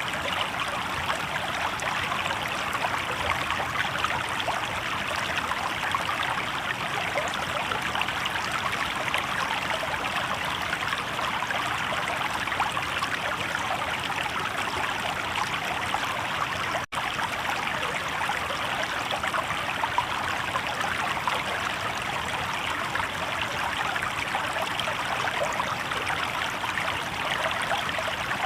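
Shallow river water babbling steadily over rocks, an even rushing trickle that cuts out for an instant about seventeen seconds in.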